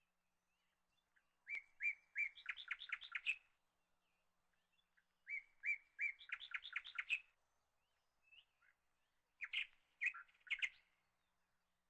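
A songbird singing three short phrases a few seconds apart, each a few clear notes followed by a quick run of notes.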